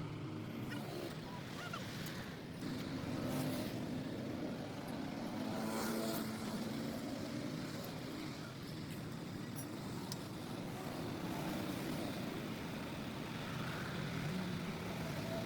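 A motor vehicle's engine running, a steady hum that rises in level a few times.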